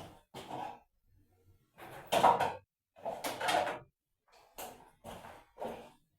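Household objects being handled: a run of short knocks and scrapes, the loudest about two seconds in and again at about three and a half seconds.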